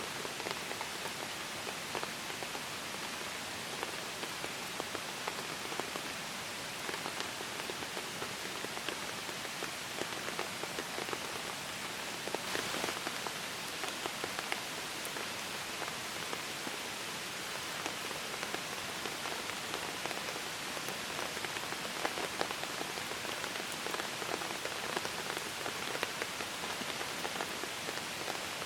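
Steady rain falling, with many separate drops tapping through an even hiss.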